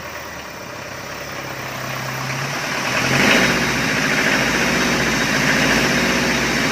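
Tempo Matador diesel engine running just after a cold start, having stood unused for several days. It grows louder through the first three seconds, then holds a steady, fast idle.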